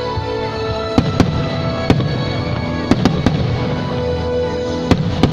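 Fireworks bursting overhead, a string of sharp bangs starting about a second in, some in quick pairs, each followed by a rumbling tail, over steady music.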